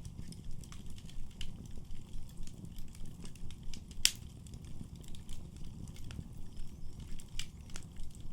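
Wood fire burning in a fireplace: a low rumble of flames with scattered small crackles, and one loud sharp pop about four seconds in.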